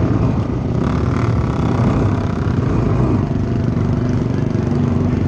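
Loud motor-vehicle engines running steadily, with no clear revving pattern.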